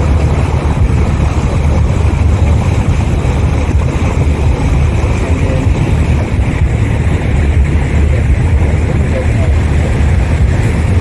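Cruise boat's engine running steadily under way: a loud, even low rumble with no breaks.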